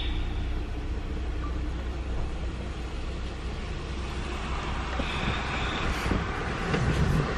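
Steady low rumble of an idling car engine heard from inside the cabin, with a rustling of a jacket as someone shifts in the seat near the end.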